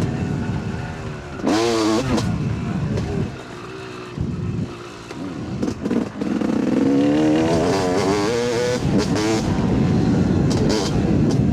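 Yamaha YZ 250 two-stroke dirt bike engine revving up and down under throttle. The revs rise sharply about a second and a half in, drop to a quieter spell of low revs with short blips in the middle, then climb again for a couple of seconds from about six and a half seconds in.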